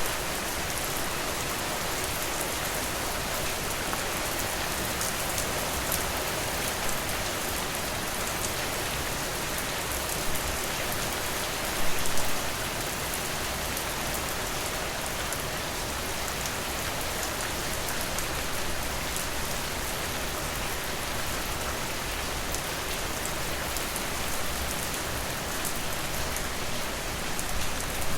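Steady rain falling, an even hiss with scattered individual drops ticking, and a brief louder spell about twelve seconds in.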